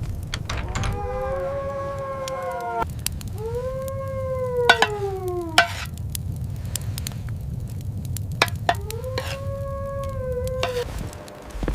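Wolves howling: several long, pitched howls, two overlapping near the start, one sliding down in pitch around the middle, and another near the end, over a steady low rumble.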